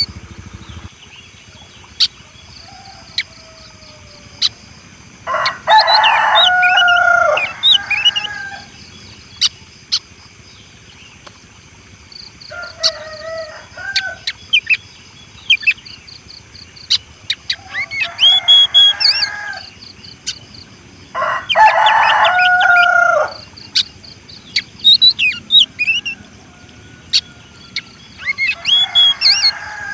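Rooster crowing over and over, about five long crows spread through the stretch with quiet gaps between. Short high chirps of small birds come and go throughout.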